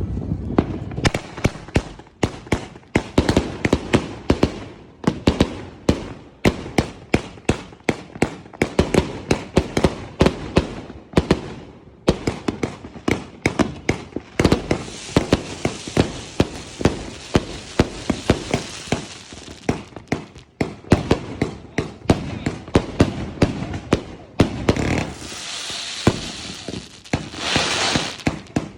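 Georgie's Revenge 200-shot firework barrage cake firing a rapid, continuous string of shots, several a second. A high hiss runs over the shots for stretches in the second half.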